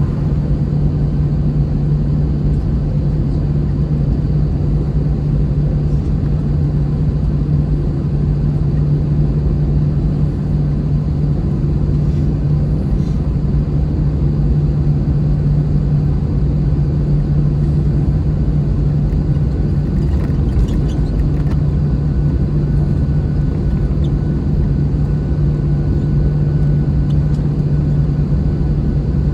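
Airbus A321-211 cabin noise from a window seat: the steady rumble of airflow and the CFM56 engines, with a strong low hum. It stays unchanged throughout.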